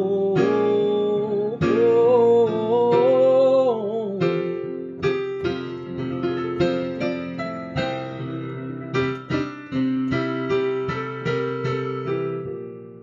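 A sung "oh" held and bending in pitch over keyboard chords for the first four seconds, then the keyboard plays on alone in separate struck notes, growing quieter and fading out near the end.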